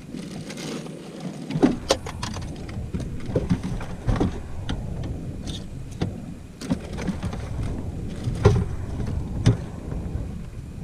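Irregular knocks, clicks and clatter from handling gear in a fishing boat, over a low rumble.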